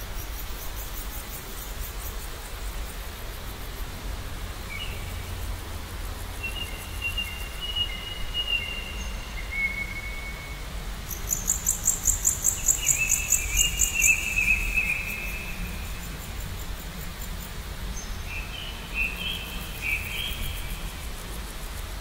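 Wild birds singing in short whistled phrases, with a rapid, very high-pitched trill that is loudest about halfway through, over a steady low rumble.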